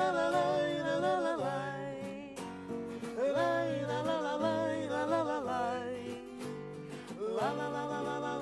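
Bard-style song with acoustic guitar accompaniment, the voice holding long wavering notes in a few drawn-out phrases without clear words.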